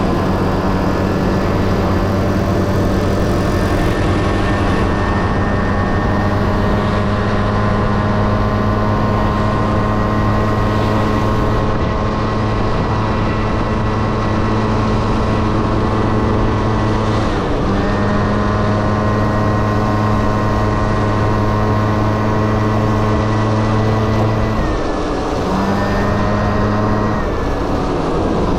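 Honda Dio AF18 scooter's 50cc two-stroke single-cylinder engine running steadily at cruising speed. Its pitch drops briefly and climbs back about two-thirds of the way through, and twice more near the end, as the throttle is eased off and reopened.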